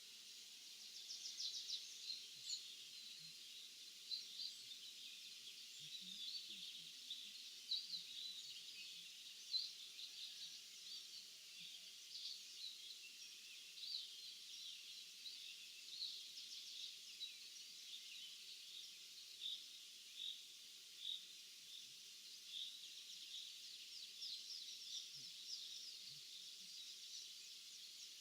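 Small birds chirping and singing in a morning chorus: many short, high calls overlapping throughout, faint, over a steady hiss.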